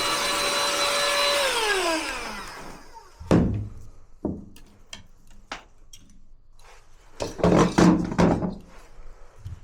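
Vacuum cleaner running steadily, then switched off, its motor winding down with a falling whine over about a second. Then a string of separate knocks and clattering handling sounds, with a busier cluster near the end.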